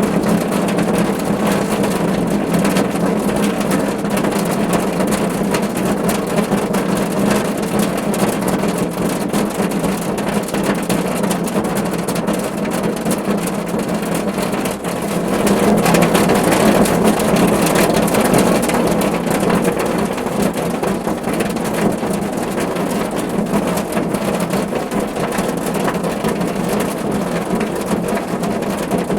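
Steady rain drumming on a car's roof, a dense patter of drops over a low hum. It swells for a few seconds about halfway through.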